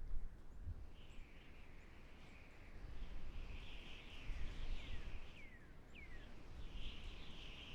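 Outdoor forest ambience: birds calling, with bursts of chirping and three short, quick downward-sliding whistled calls in the second half, over a steady low rumble of wind noise.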